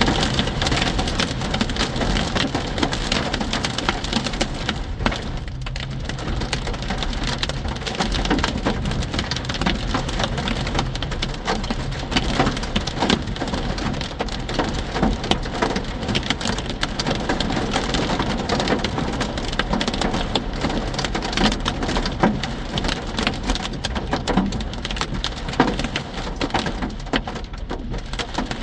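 Hail pelting hard, a dense steady rattle of countless small impacts.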